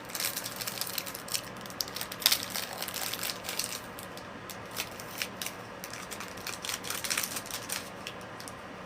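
Candy-bar wrapper crinkling and crackling as it is torn open and peeled back, in irregular bursts of sharp clicks.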